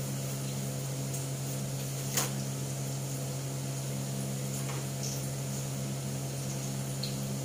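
Grated-potato omelette (tortang patatas) frying in a wok over a gas burner: a faint sizzle with a few sharp pops, the loudest about two seconds in, over a steady low hum.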